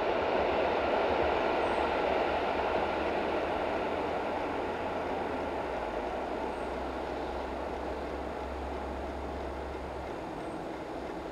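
A PKP EP09 electric locomotive and its passenger train approaching from far down the line, still out of sight: a steady rushing noise carried along the rails, with a low hum that drops away about ten seconds in.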